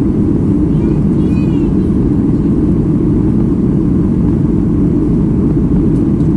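Steady, deep cabin noise of a Boeing 737 MAX 8 in flight, the engines and airflow heard from inside the passenger cabin. A faint high warble rises and falls about a second in.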